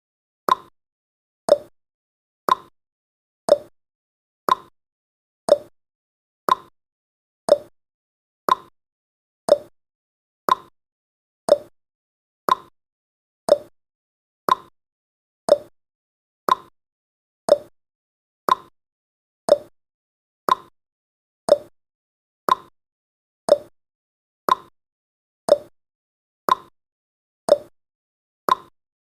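Countdown timer's ticking sound effect: one short, sharp tick every second, each dying away quickly, in an even clock-like rhythm.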